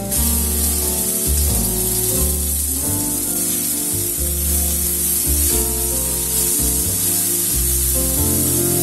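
Sliced meat sizzling in hot oil and garlic in a nonstick wok, the sizzle starting as the meat goes in and holding steady while it is stirred. Background music with a bass line plays throughout.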